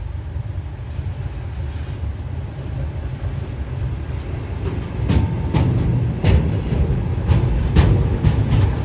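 A train passing: a low rumble, then from about five seconds in, louder irregular sharp clacks of its wheels running over rail joints.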